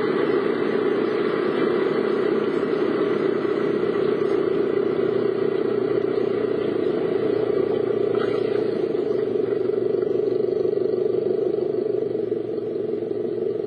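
Steady vehicle noise heard from inside a car, engine running, easing off slightly near the end.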